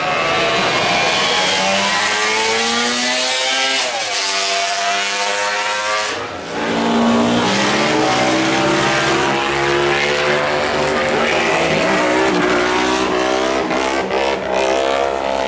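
Racing motorcycle engines accelerating hard up the hill, the pitch climbing and then dropping at each gear change. A first bike passes, and about six seconds in a second one follows.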